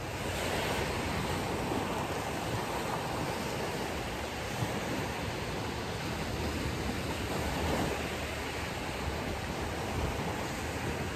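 Ocean surf washing onto a beach: a steady rush of breaking waves that swells a little at the start and again about eight seconds in.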